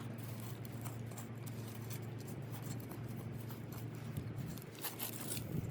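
Garden soil being stirred and scraped while something is mixed into it, in scattered short scratchy strokes that come thicker near the end, over a steady low hum.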